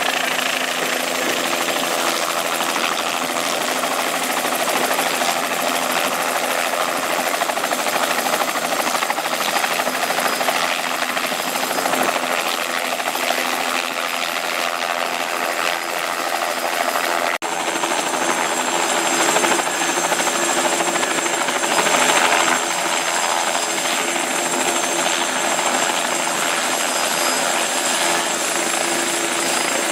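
Helicopter running: steady engine and rotor noise with a few constant tones, broken by a brief dropout a little past halfway.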